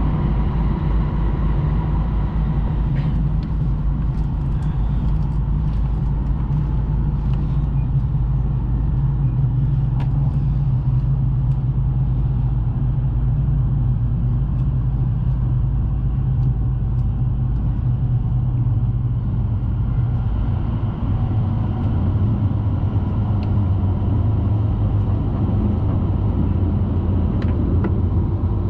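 Steady rumble and hum inside the cabin of a Tohoku Shinkansen Hayabusa train running at speed, with a few faint ticks.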